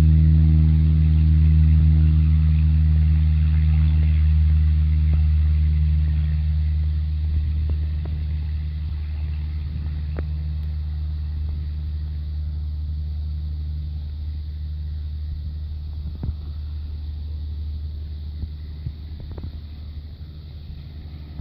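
Aircraft taking off: a low engine rumble with a steady hum that gradually fades.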